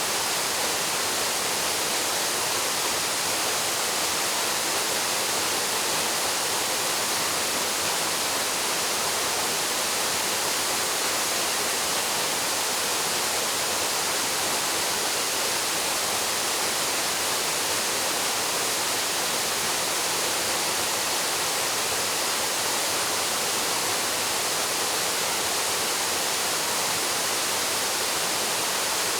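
Waterfall plunging into a pool: a steady, unbroken rush of falling water, strongest in the hiss range.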